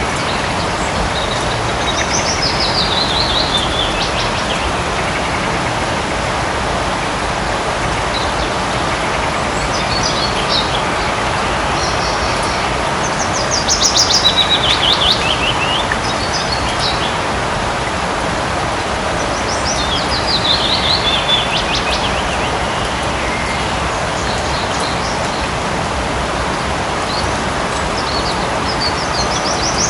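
Light rain falling steadily on forest foliage, with a bird singing a fast descending trill four or five times.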